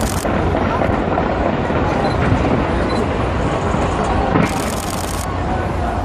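Fireworks bursting in a continuous rumble of booms, with crowd voices mixed in.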